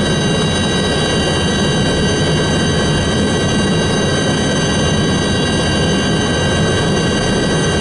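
Military helicopter running steadily, a constant turbine whine of several high tones over the rotor and engine noise.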